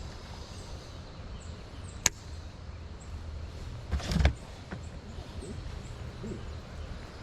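Wind buffeting the microphone in a steady low rumble, with a single sharp click about two seconds in and a dull knock around four seconds in.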